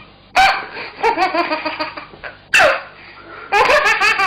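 Laughing toy doll giving bursts of high, repeated "ha-ha" laughter, several of them starting with a sharp knock.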